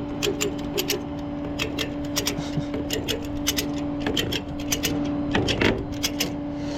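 Rapid, irregular clicking, typical of a tow strap's ratchet being worked, over a steady machine hum.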